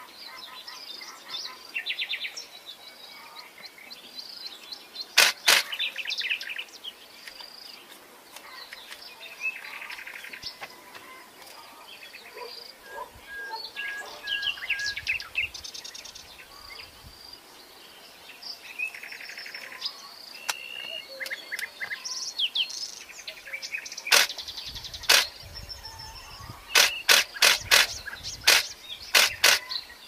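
Birds chirping and trilling in short, varied phrases over a light outdoor hiss. Loud sharp clicks stand out, one about five seconds in and a quick run of them near the end.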